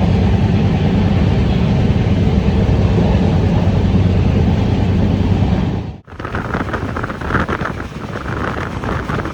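Passenger train in motion: a loud, steady low rumble of running noise with wind on the microphone. About six seconds in it cuts off abruptly to a different, hissier clatter.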